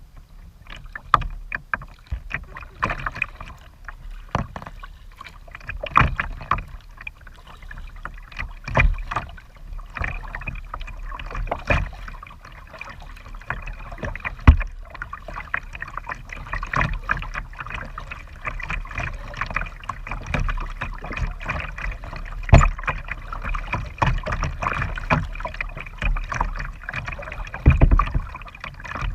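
Kayak paddling: paddle strokes in the water with irregular splashes and sharp knocks, two of them much louder than the rest.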